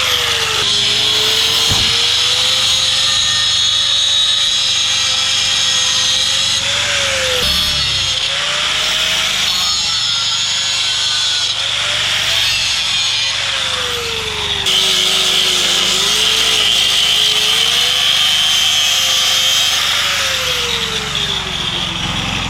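Electric demolition hammer (jackhammer) chiseling into concrete, running steadily with a high rattle and a faint wavering hum underneath.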